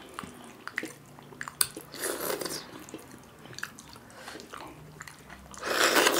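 Close-up wet eating sounds of people eating kodo millet dhido and chicken curry by hand: chewing with scattered small mouth clicks and smacks, a softer squelchy patch about two seconds in, and a louder wet sucking burst near the end as food is taken off the fingers.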